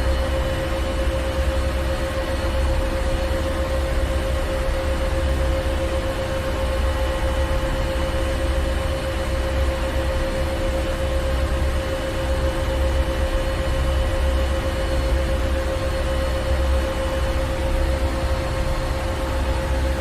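Ship's engine room machinery running steadily: a deep, even rumble under a constant hum, with a hiss over it.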